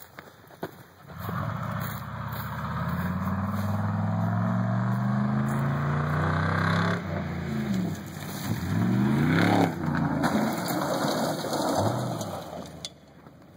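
Truck engine accelerating hard, its note climbing steadily for several seconds, then dropping and rising again a couple of times before it fades out near the end.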